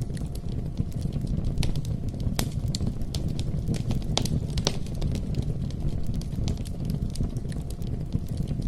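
Wood bonfire burning: a steady low rumble of flames with irregular sharp crackles and pops, a few louder snaps among them.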